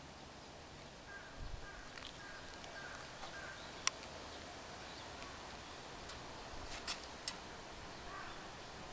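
Faint outdoor ambience with a distant bird calling and a few sharp clicks.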